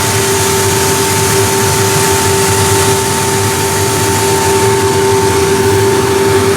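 Vikhr-2000 grain-heap aeration fans running steadily, blowing air into the grain heap: a loud, even rush of air with a constant two-tone whine.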